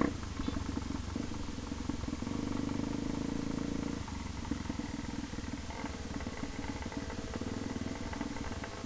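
A vehicle engine running steadily while on the move, its note shifting about four seconds in and again near six seconds.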